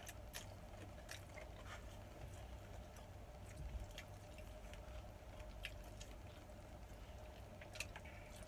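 Faint eating sounds: scattered soft clicks of chewing, over a steady low hum.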